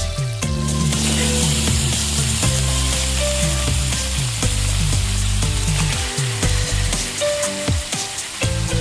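Food frying in a hot pan, a steady sizzle with scattered short clicks from stirring.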